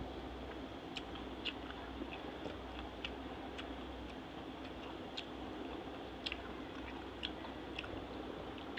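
A person chewing a soft mouthful of dhuska and potato curry with the mouth closed, with small wet mouth clicks scattered irregularly, about one or two a second, over a steady background hiss.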